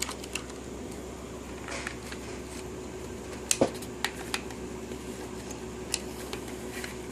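A few light plastic clicks and taps as a Lego train is handled and set onto its plastic track, over a faint steady hum.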